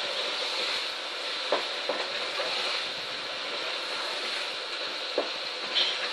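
Spiced chicken and tomato mixture sizzling in a pot on high heat as a wooden spoon stirs it, with a steady hiss and the spoon knocking against the pot twice.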